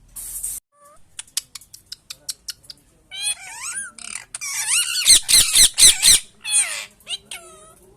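Pet parrot making a run of sharp clicks, then a series of loud, high, wavering squawking calls that are loudest about five to six seconds in.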